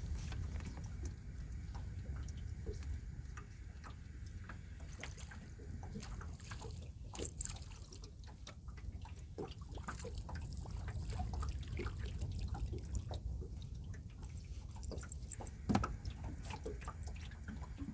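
Water dripping and lapping lightly against a small boat's hull, with scattered small clicks, over a steady low rumble. A single sharper knock comes near the end.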